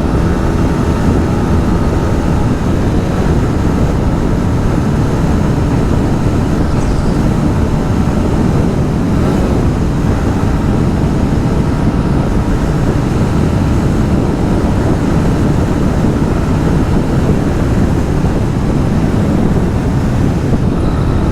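125 cc motorcycle being ridden at speed, its engine running steadily under heavy wind noise on the microphone.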